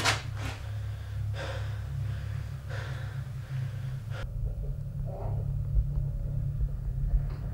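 A frightened young man breathing hard in ragged gasps, three heavy breaths in the first three seconds, then fading away, leaving only a low steady hum.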